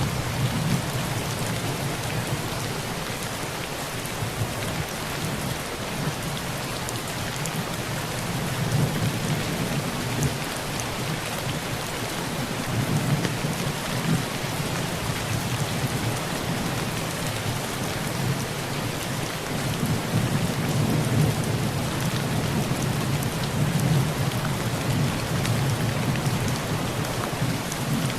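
Heavy rain falling on a tin roof as a steady, dense patter of drops, with low rolling thunder that swells and fades several times.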